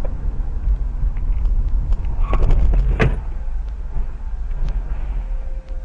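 Steady low rumble of a moving car heard from inside the cabin. A cluster of small clicks comes about two seconds in, followed by one sharp knock about three seconds in.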